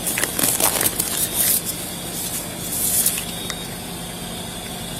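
Irregular bursts of rustling and scuffing, most of them in the first second and a half and another about three seconds in, over a steady low hum.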